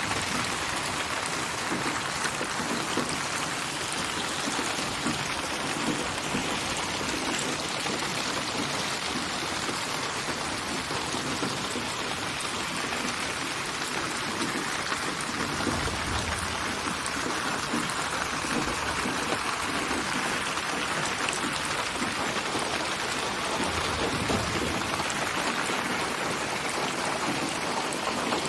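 Steady rain: a dense, even patter of raindrops on surfaces, built from rain samples and moved around the listener with 8D (HRTF) spatial panning.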